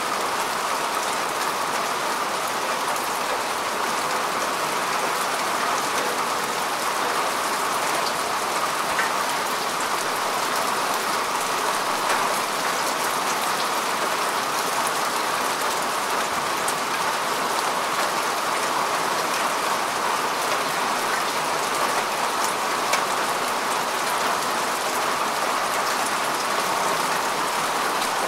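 Steady rain falling on grass and earth, an even patter with small drop ticks throughout.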